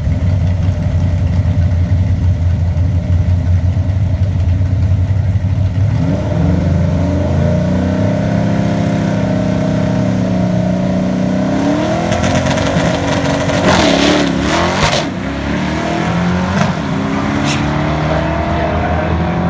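Drag car's engine idling with a low rumble, then launching about six seconds in and accelerating hard, its pitch climbing and dropping back at each gear shift.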